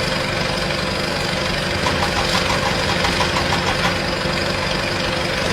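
Small engine of a homemade mini tractor running steadily at an even idle.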